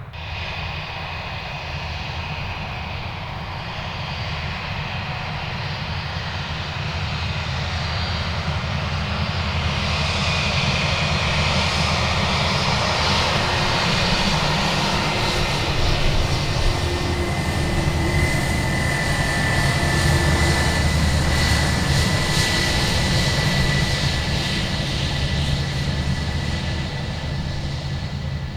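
Jet airliner's engines passing close: a low rumble and hiss that grows louder for about fifteen seconds, with a steady high whine near the loudest part, then eases slightly toward the end.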